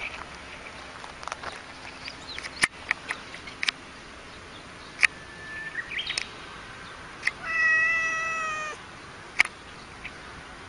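Domestic cat giving one long meow about seven seconds in, about a second long and dipping slightly in pitch. Sharp clicks here and there.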